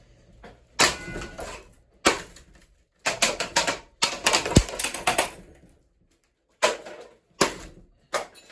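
A ceiling fan blade breaking up while the fan spins: bursts of sharp cracking and clattering impacts, with rapid runs of hits about three and four seconds in, as the blade shatters apart.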